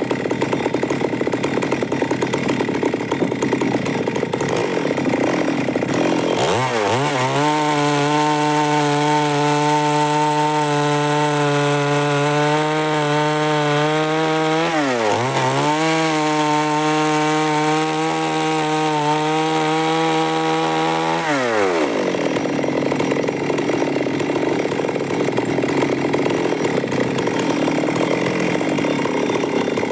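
Stihl MS 382 two-stroke chainsaw ripping through wood. It gives a rough sawing noise at the start and again near the end, and in between runs for about fifteen seconds at a steady high-pitched full-throttle whine. The whine dips briefly about halfway through, then drops away as the chain goes back into the cut.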